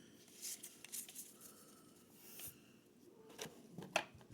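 Faint rustling and a few light taps of trading cards being handled and sorted, in short scattered bursts with a small cluster near the end.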